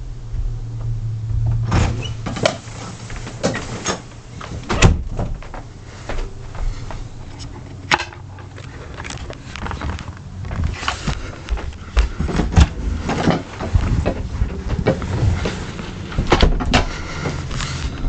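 Irregular knocks and clunks, the loudest about five seconds in and several close together at times, over a low steady hum.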